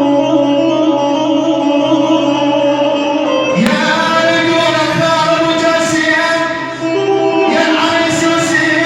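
Male voice singing a mawwal in long held notes over instrumental accompaniment; the sound turns abruptly brighter about three and a half seconds in.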